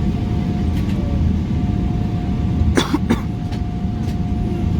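Steady low rumble inside a Boeing 777 cabin on the ground, with a thin steady whine over it. About three seconds in, a person coughs twice in quick succession.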